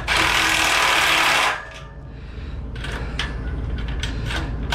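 Cordless power driver spinning a bolt tight: a loud burst of about a second and a half, then a weaker stretch of running. Its battery is running low.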